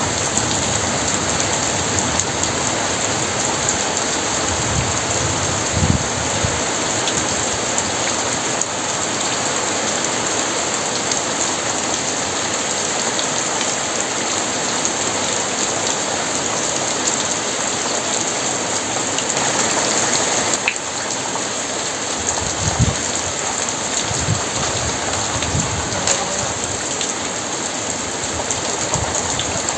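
Very heavy rain pouring steadily on surfaces. There are a few brief low thuds, once about five seconds in and several more about two-thirds of the way through.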